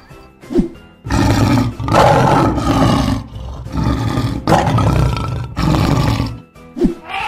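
Lion roaring, a run of several long, rough roars lasting about five seconds, over background music.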